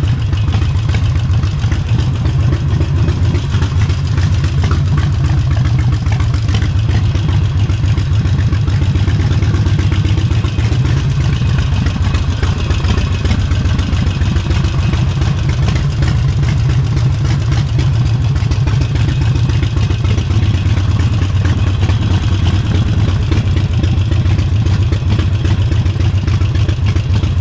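Harley-Davidson Forty-Eight's air-cooled 1200 cc V-twin running steadily, with its rapid, even exhaust pulses and no big revs.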